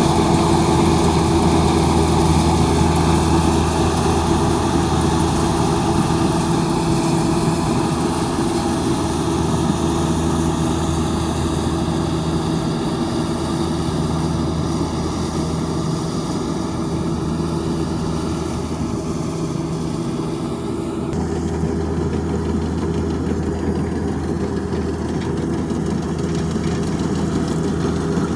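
Rice combine harvester engine running steadily with a constant low hum. About three-quarters of the way through, the sound shifts: the low hum gets stronger and the high hiss drops away.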